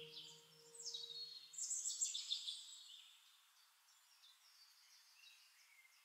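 Birds chirping, a quick run of short high notes lasting about two seconds, over the last of a soft musical tone dying away; then near silence.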